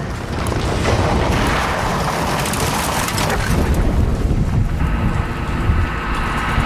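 Heavy machinery running, loud and noisy with a deep rumble; a steady whine joins about five seconds in.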